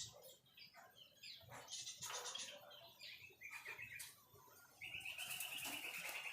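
White-rumped shama singing: a run of varied short whistles and chirps, then, a little under five seconds in, a buzzy rattling trill held on one pitch.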